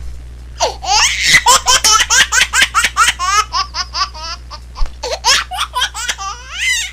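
A baby laughing in a long run of quick, high-pitched bursts, about five a second, starting about half a second in.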